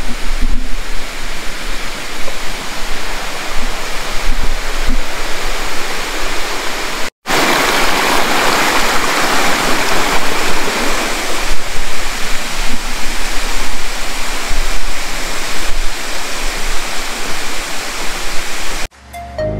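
Waterfall rushing loudly and steadily. It cuts out for a moment about seven seconds in and comes back louder, and near the end it gives way abruptly to music.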